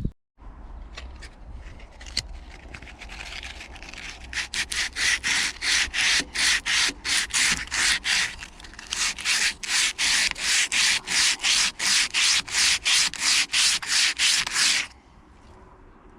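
Hand sanding with sandpaper in quick back-and-forth strokes, about three a second. The strokes are soft at first, grow much louder about four seconds in, and stop suddenly near the end.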